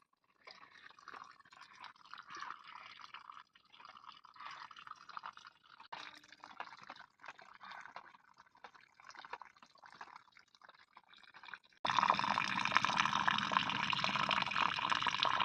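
Rainwater dripping and trickling after rain: a dense patter of small drips. About twelve seconds in it jumps suddenly to a much louder, steady rush of water.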